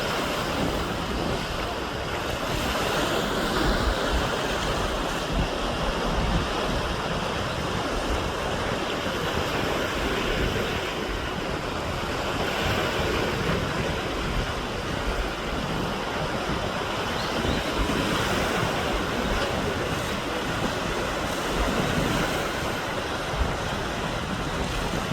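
Steady wind buffeting the microphone over a continuous wash of water.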